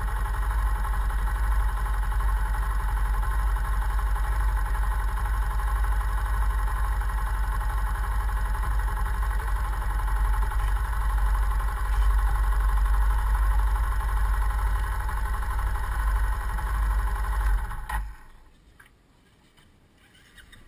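Yamaha Fazer 150 Blueflex's single-cylinder engine idling steadily through its stock exhaust, then cutting off suddenly near the end as it is switched off.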